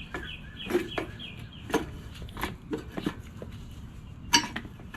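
Sharp clicks and knocks of small mower parts being handled and pressed together while fitting a part onto a freshly seated O-ring, the loudest click near the end. A bird chirps rapidly in the first second.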